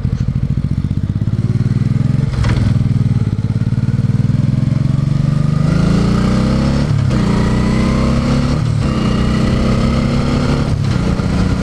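Motorcycle engine accelerating through the gears. Its pitch rises in several runs, each broken by a brief dip as it shifts up, about two, seven, nine and eleven seconds in.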